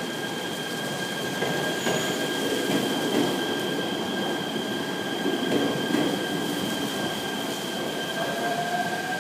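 ET127 series electric multiple unit moving along the platform: steady rumble of wheels on rail with a constant high-pitched squeal. Near the end a faint tone begins to rise in pitch.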